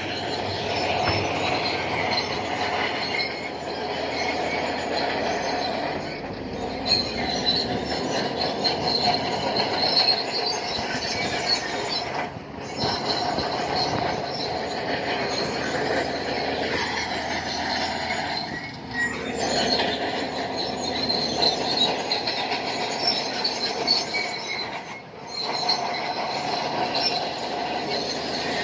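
Shantui crawler bulldozer working, its steel tracks squealing and clanking over the diesel engine's running, with brief dips about twelve and twenty-five seconds in.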